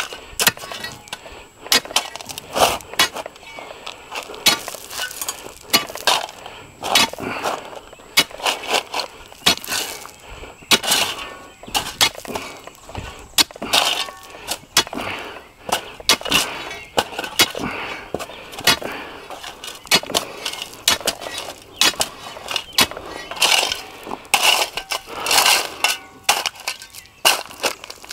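Irregular cracking, crunching and snapping, several sharp impacts a second, as material is broken and torn apart.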